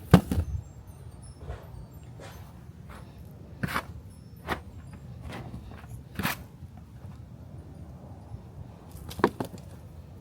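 Hand-harvesting potatoes from a grow bag: soil and handling rustle with a handful of sharp, irregular knocks as potatoes are dug out and dropped in with the others, the loudest right at the start.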